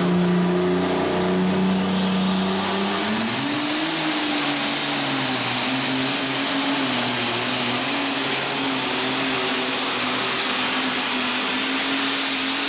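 Super stock alcohol pulling tractor engine running hard under load, its pitch climbing about two to three seconds in and then holding with slight wavering, as a high turbocharger whine rises and stays on top.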